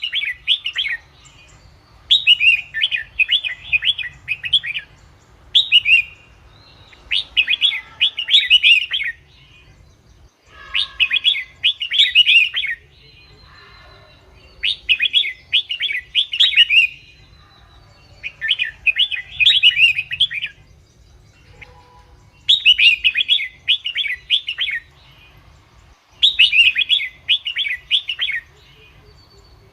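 Red-whiskered bulbul singing: short phrases of quick, chirpy notes repeated about every two to three seconds, with brief pauses between them.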